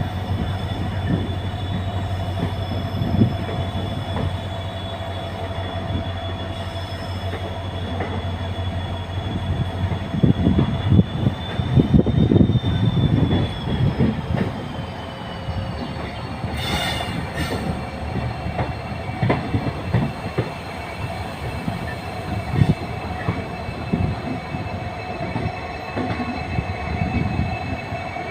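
Passenger train running at speed, with a continuous rumble and repeated wheel knocks over the rails. Over this sits a steady high whine that slides lower about halfway through. A brief sharp hiss comes around two-thirds of the way in.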